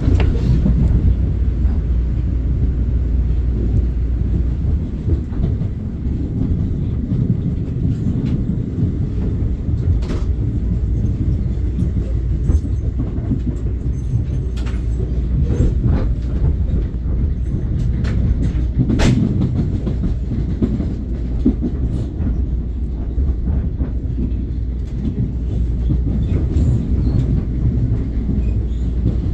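Long Island Rail Road train running on the rails: a steady, loud low rumble with a few sharp clicks from the wheels.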